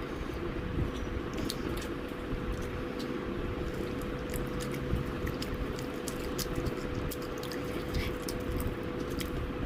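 Someone chewing crispy fried chicken, with small irregular crunchy crackles, over a steady background hum.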